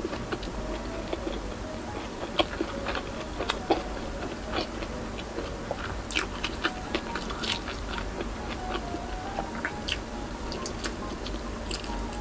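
Close-miked mouth sounds of a person chewing and biting into soft braised pork belly, with many short irregular clicks of the mouth and lips.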